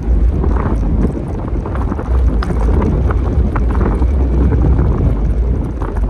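Wind buffeting the microphone of a moving bicycle rider, a steady low rumble, with scattered light clicks and rattles.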